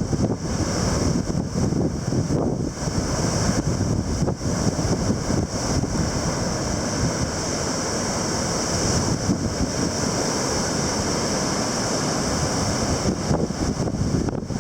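Heavy surf from a typhoon-driven sea with strong wind buffeting the microphone: a dense, steady roar of water and gusts.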